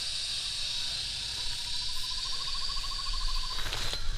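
Insects trilling in a steady high chorus, joined about one and a half seconds in by a lower, rapidly pulsing trill that stops shortly before a brief rustle near the end.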